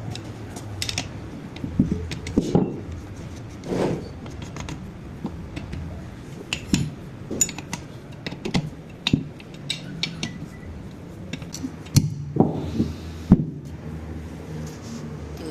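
Metal parts of a pneumatic jack clinking and knocking irregularly as they are handled and fitted together, with a few sharper knocks near the end.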